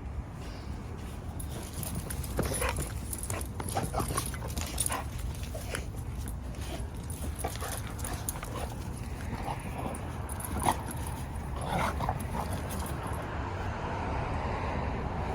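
Dogs at play giving short whimpers and yips in scattered bursts, busiest a couple of seconds in and again about ten seconds in.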